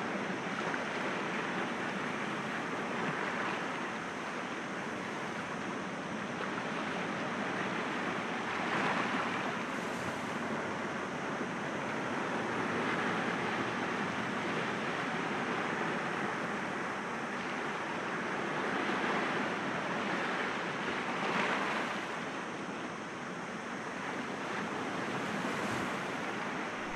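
Sea waves breaking gently against rocks: a continuous wash of surf that swells and eases, with louder breaks about nine seconds in and again around twenty-one seconds.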